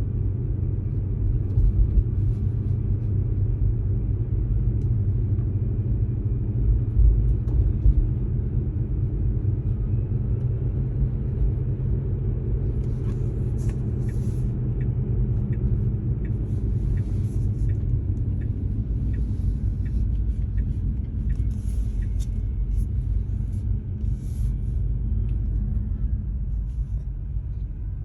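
Steady low road rumble of a moving Tesla Model 3, heard inside the car. From about halfway through, a faint regular ticking comes in, about two ticks a second.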